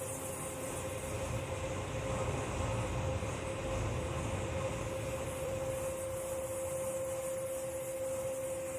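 Steady mechanical factory noise with a constant hum, a low rumble swelling in the middle.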